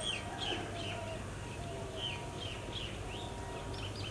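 Birds chirping, a run of short falling chirps several times a second, over a steady low hum from a distant approaching diesel locomotive.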